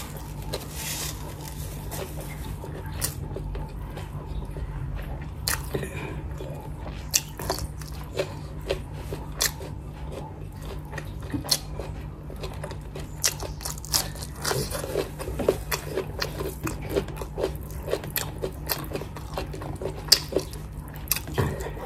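A person chewing and crunching food, with many short, sharp mouth clicks, over a steady low hum.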